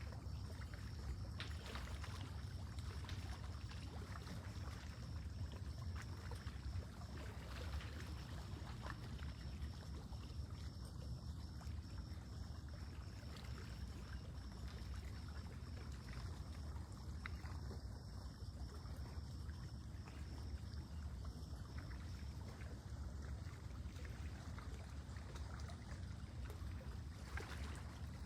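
Lake water lapping gently against the shore, with faint scattered splashy ticks over a steady low rumble.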